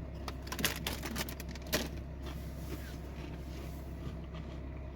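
Crisps being eaten: a few crunches and crinkles of the packet in the first two seconds, over a steady low hum inside the vehicle.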